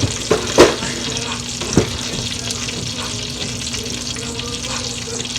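Coated chicken pieces frying in hot oil, a steady sizzle with crackles. Three sharp knocks come in the first two seconds, the second the loudest, with a faint steady hum underneath.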